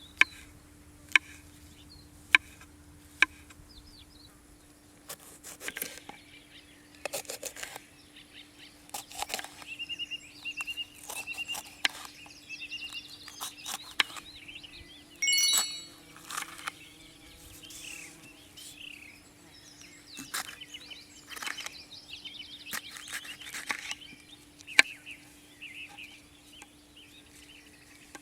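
Small birds chirping and calling, with several sharp single knocks or clicks scattered through, and one louder brief call about halfway.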